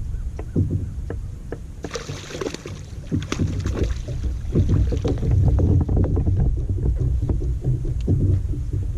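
Water sloshing against a plastic fishing kayak's hull, with a rumble of wind on the microphone and small knocks and clicks throughout. A brief hissing wash comes about two seconds in.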